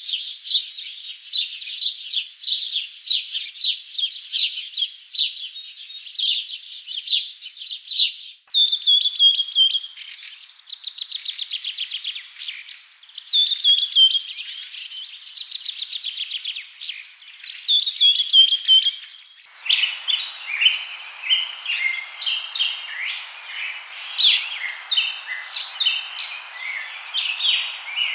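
Songbirds singing: rapid high chirps and trills, with abrupt switches between different recordings about eight seconds in and again near twenty seconds; the middle section holds fast trills that fall in pitch at their ends, and the last section has a steady hiss behind the chirping.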